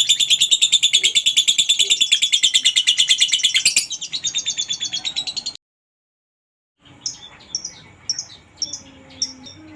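Lovebird's ngekek: a long, very rapid chattering trill of high repeated notes, loud for almost four seconds and then softer, until it cuts off to silence. After about a second it resumes as separate sharp chirps, about two a second.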